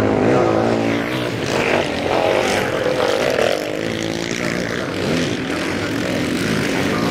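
Sidecar motocross outfits' engines revving hard, several at once, their pitch rising and falling with throttle and gear changes.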